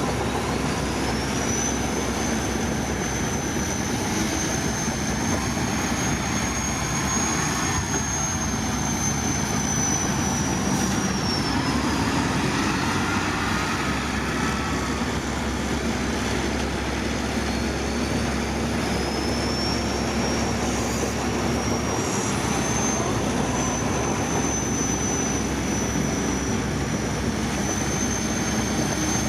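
Heavy diesel earthmoving machinery running steadily under load, with a high whine that rises, holds and falls away, then rises again about two thirds of the way through.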